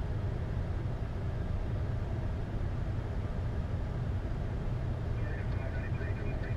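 Steady low rumble and hiss on a Boeing 747-8 flight deck. About five seconds in, a faint, thin high sound comes in over it.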